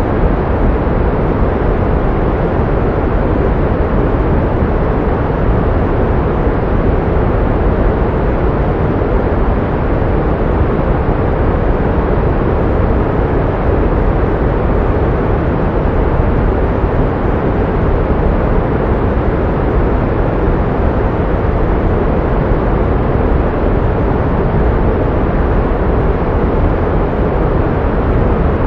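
Synthetic pink noise: a steady, unchanging rush, heaviest in the low end and fading off toward the treble.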